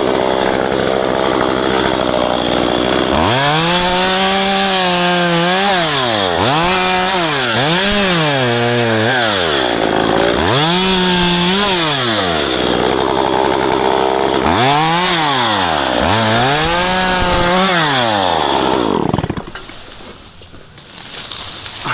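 Chainsaw running flat out, then revving up and down about six times as it cuts ficus branches. It stops suddenly near the end.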